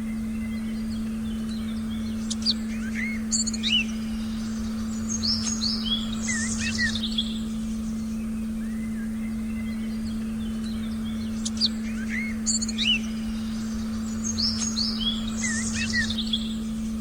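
Forest birdsong, several birds chirping and trilling in two bursts about nine seconds apart. Beneath it a steady low sustained tone is held unbroken, the meditation frequency tone.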